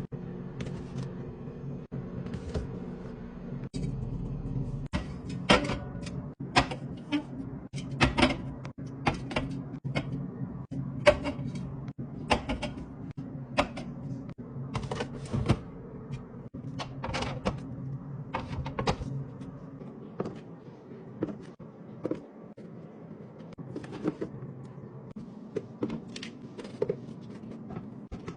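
Irregular clicks and knocks of things being handled and set down, like cupboard or drawer parts, over a steady low hum that stops about two-thirds of the way through.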